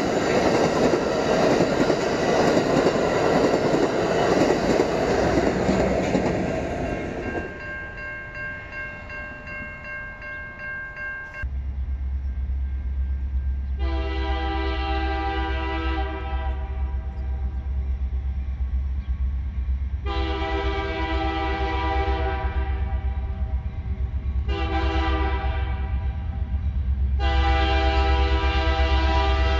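Amtrak passenger cars rolling past, with the noise fading away after about seven seconds. Then a locomotive air horn sounds the grade-crossing signal, long, long, short, long, over a steady low rumble from a train that is approaching.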